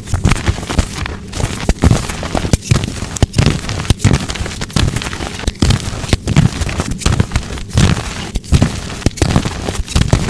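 Blocks of dyed gym chalk being crushed, giving a continuous crackly crumble punctuated by sharp snapping crunches about one to two times a second.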